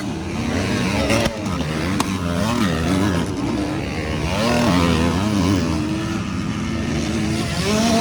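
Motocross bikes racing, their engines revving up and down as they run the track, with the pitch rising and falling repeatedly.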